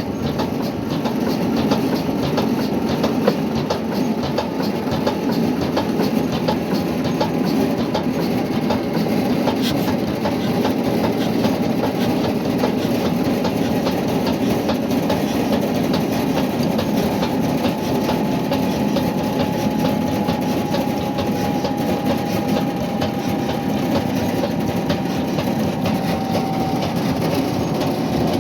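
Old Ruston Hornsby diesel engine running steadily, with a dense, even clatter. A faint thin whine comes in past the middle, drifting slightly lower.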